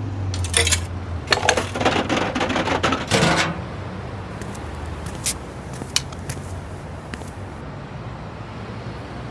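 Clattering and clinking: dense runs of sharp clicks for about the first three seconds, then scattered single ticks over a steady low hum, all cutting off abruptly at the end.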